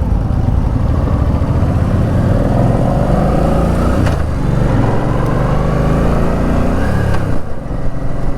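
Suzuki Boulevard C50T's V-twin engine running as the motorcycle rides, its pitch rising as it accelerates over several seconds and then easing off about seven seconds in.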